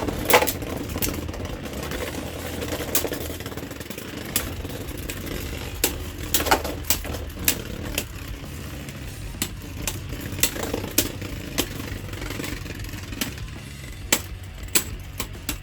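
Beyblade Burst spinning tops whirring in a plastic stadium, with repeated sharp clicks as they clash, in clusters near the start, in the middle and near the end.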